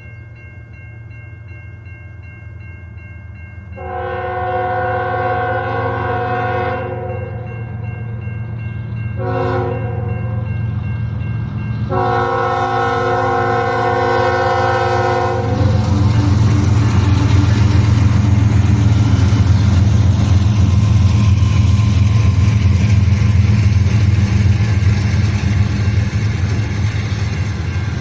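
CN diesel freight locomotive sounding its horn: faint at first, then a long blast, a short blast and another long blast, the end of a grade-crossing signal. The locomotive then passes close by, its engine rumbling loudly over the noise of the rolling freight cars.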